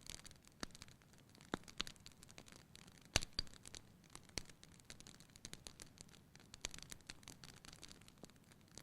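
Fire burning in a fireplace, crackling: irregular sharp pops and snaps over a faint hiss, the loudest pop a little past three seconds in.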